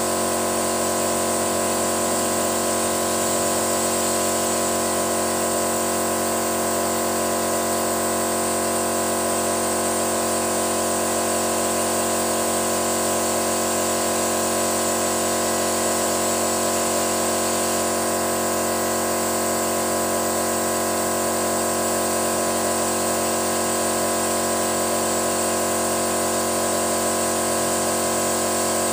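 A machine running steadily: an unchanging hum of several steady tones with a hiss over it.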